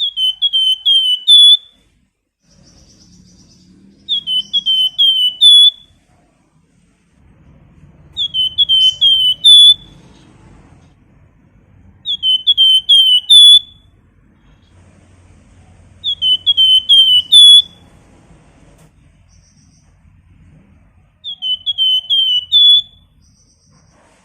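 Flamboyan songbird whistling a short repeated phrase: four or five quick, clear whistled notes, the last one higher and loudest. The phrase comes six times, about every four seconds.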